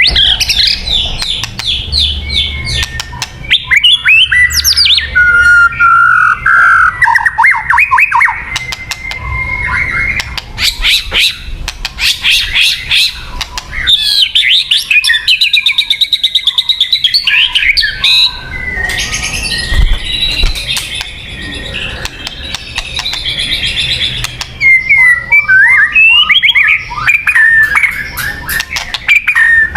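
White-rumped shama singing a loud, varied song: quick runs of repeated notes, sliding whistles and raspy chattering phrases, broken by short pauses.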